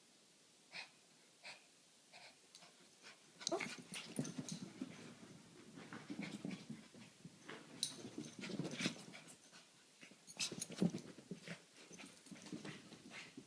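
Dogs playing: a few short isolated sounds at first, then from about three and a half seconds in a busy, irregular run of dog breathing and vocal noises with sharp scuffling sounds, loudest at two peaks later on.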